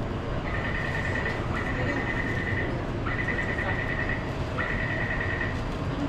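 Taipei Metro station's electronic warning tone: four high, steady beeps of about a second each, with short gaps between them, over a steady low rumble.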